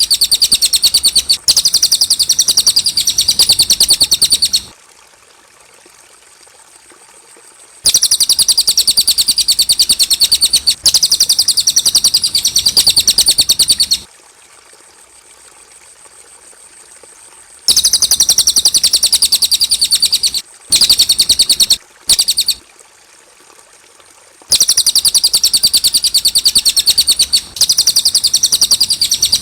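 Cililin song: long runs of rapid, high, fast-repeating notes several seconds each, broken by pauses of about three seconds, with two short bursts in the second half.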